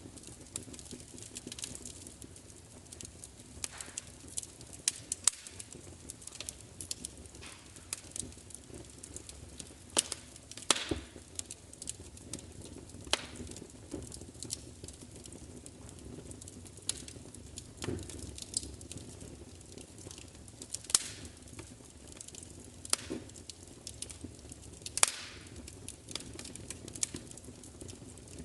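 Wood fire crackling: irregular sharp pops and snaps over a soft steady hiss, a few louder pops scattered through.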